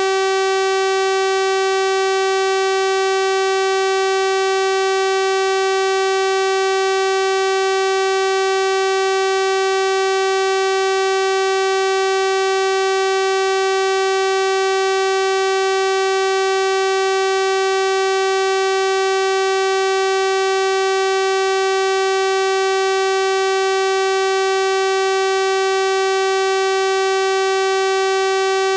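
Synthesized 384 Hz sawtooth-wave tone, a steady buzzy drone with a full series of overtones, unchanging in pitch and level.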